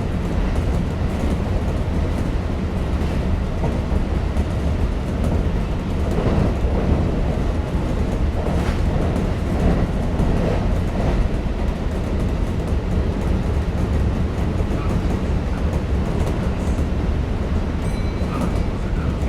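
Kintetsu 5800 series electric train running, heard from inside the car: a steady rumble of wheels on rails, with a run of knocks from the track about six to eleven seconds in.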